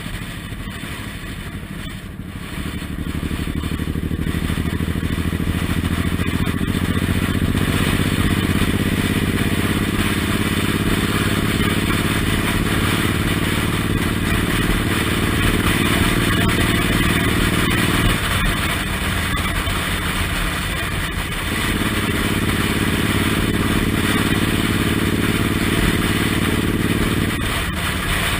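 Suzuki Intruder M1800R's big V-twin engine running on the move, with a constant rush of air noise over it. The engine note grows about three seconds in, eases off around eighteen seconds in, picks up again a few seconds later and eases off again near the end.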